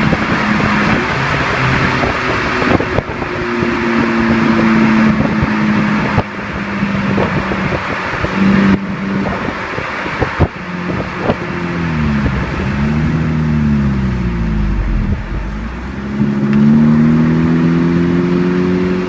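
2009 Chevrolet Cruze engine running through a Friedrich aftermarket dual exhaust, its note steady for the first half. After that the pitch dips and climbs a couple of times and ends on a rise.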